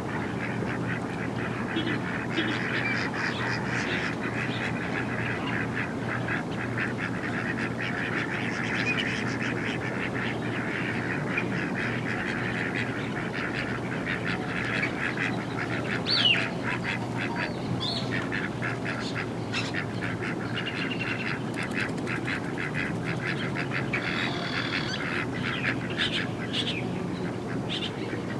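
A flock of ducks quacking continuously, with honking mixed in, over a steady low hum. A single sharp rising call stands out about halfway through.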